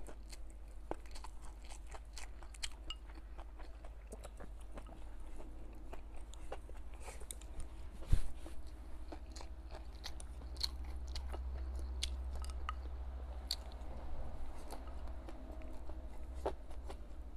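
Close-up chewing and crunching of stir-fried hot and sour chicken giblets with rice, with many small crisp clicks. There is one loud knock about eight seconds in.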